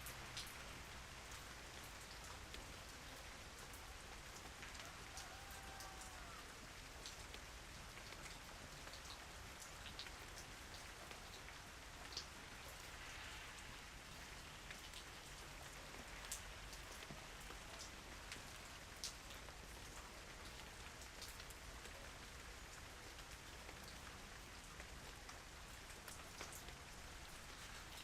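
Calm, steady rain: a soft even hiss with individual drops ticking here and there, a few of them sharper drips.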